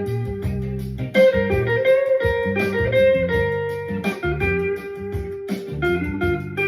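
Electric guitar playing a bluesy lead line of held and bent notes over a funky backing track with bass and a steady drum beat.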